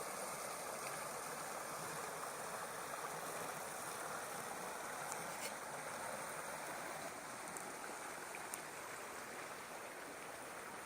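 A small burn rushing steadily over rocks and little cascades, with a few faint ticks about halfway through.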